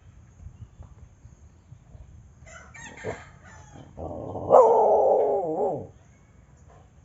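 A rooster crowing once, about four seconds in: one loud pitched call lasting about two seconds that wavers at its end. Softer, shorter calls come a second or so before it.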